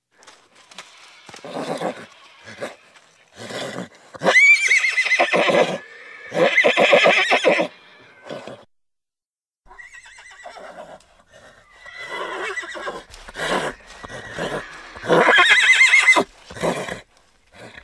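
Horse neighing repeatedly: several loud whinnies, the strongest about four seconds in, about seven seconds in and near the end, with quieter calls between them.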